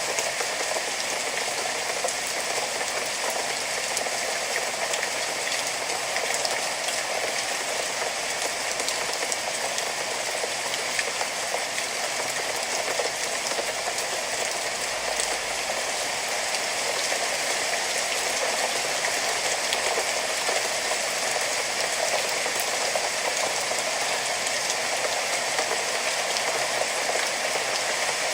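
Steady, even rainfall, a dense hiss of rain on surfaces.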